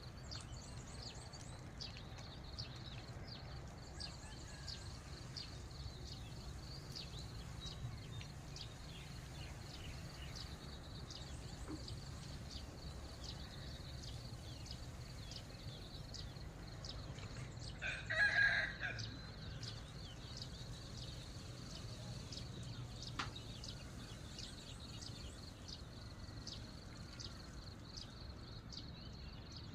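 A rooster crows once, about two-thirds of the way through, over a steady high-pitched buzz and scattered short chirps.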